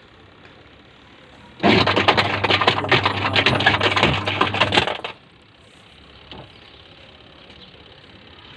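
Washing machine pulsator turning with a hum and a fast clattering rattle for about three and a half seconds, starting about a second and a half in and stopping abruptly. The rattle comes from a curtain ring caught under the pulsator, which was first suspected to be the gearbox.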